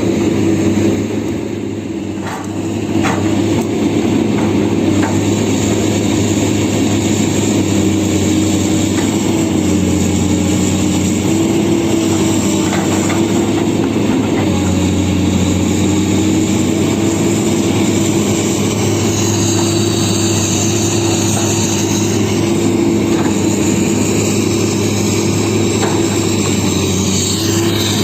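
Excavator's diesel engine running steadily, its pitch shifting a few times, with a few short knocks about two to three seconds in.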